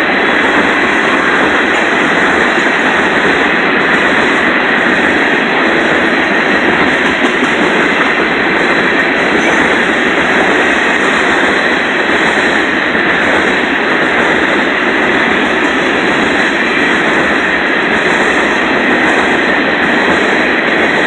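Freight train of tank cars rolling past: a loud, steady rush and rattle of steel wheels on rail.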